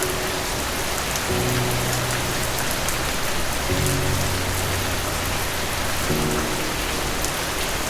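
Steady rain hissing and pattering, with soft sustained music chords underneath that change about every two and a half seconds.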